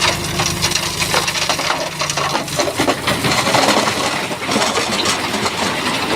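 Bulldozer working loose stone: a dense, continuous clatter and crunch of rocks grinding and knocking together. The low engine note is heard under it at first and fades out within the first couple of seconds.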